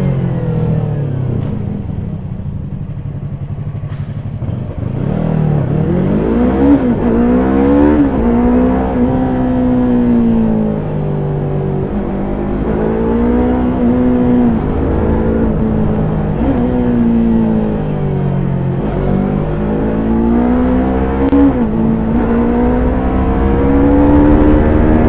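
Stock Yamaha YZF-R3's 321 cc parallel-twin engine under way. The note sinks low a few seconds in, then climbs and drops again and again as the bike accelerates through the gears and eases off.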